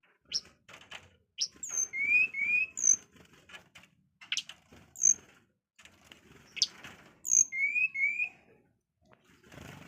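A burung suling (the 'flute bird' kept as an Indonesian songbird) singing a repeated whistled phrase of a few sharp, high, upswept notes followed by a pair of clear rising whistles, several times over.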